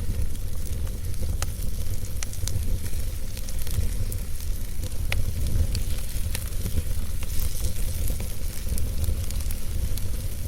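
Wood fire burning in a fireplace: a steady low rumble of flames with scattered, irregular sharp crackles and pops from the burning logs.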